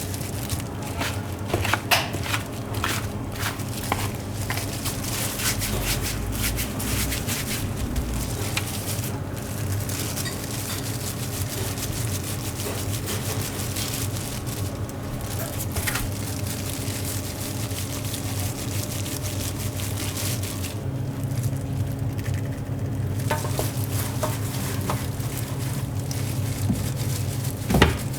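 Hot oil sizzling and crackling in a deep fryer, with scattered clicks and knocks of utensils and a steady low hum of kitchen equipment; one louder knock near the end.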